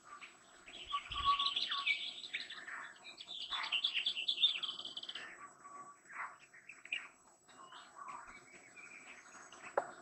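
Wild birdsong: two bursts of fast, high chirping trills in the first half, then scattered softer chirps and calls.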